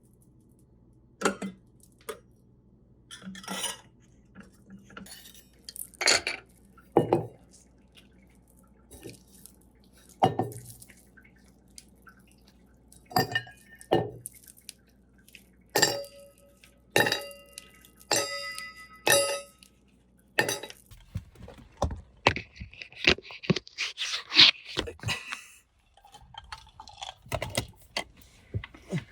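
Scattered knocks and clinks of dishes and cutlery being handled, several of them ringing briefly. About three-quarters of the way through comes a few seconds of hissing noise.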